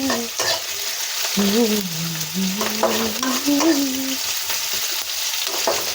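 Onions with ginger, garlic and green chillies frying in oil, sizzling steadily as they are stirred. A woman hums a tune over it.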